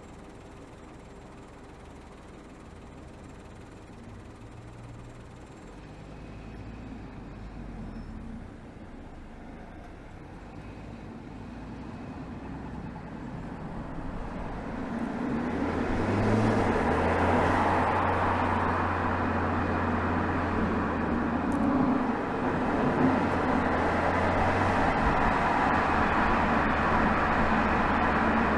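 Exhaust of a BMW 320xd's 2.0-litre four-cylinder turbodiesel, recorded right next to the tailpipe while driving. It is quiet at first, then grows much louder past the halfway point, with a steady low drone over rising road and wind noise as the car picks up speed.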